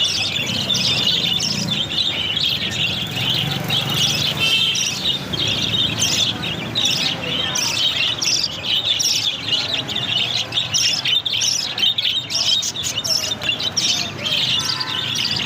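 A colony of budgerigars chattering together: many overlapping high chirps and warbles, with no pause.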